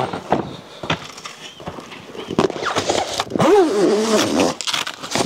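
Rustling and knocking of tent fabric and poles being handled and pulled into place. A short, wavering vocal sound comes about three and a half seconds in.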